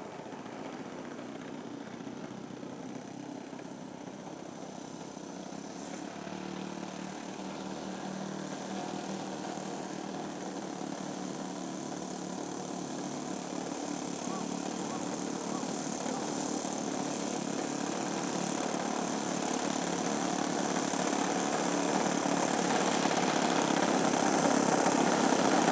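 Twin OS FS α56 four-stroke glow engines of a radio-controlled Beechcraft Baron G58 running, the sound growing steadily louder as the model approaches.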